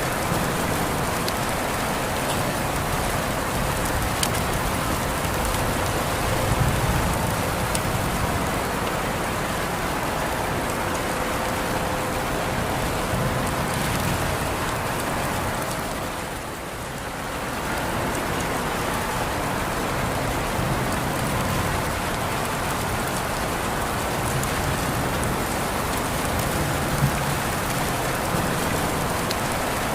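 Steady, even rain falling, with a brief dip in loudness about halfway through.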